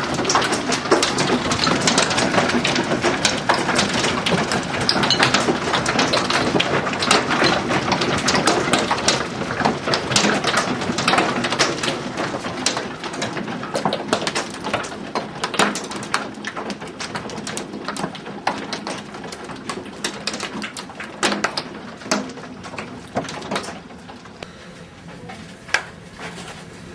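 Hail falling hard: a dense, continuous patter of hailstone impacts that thins out to scattered hits near the end.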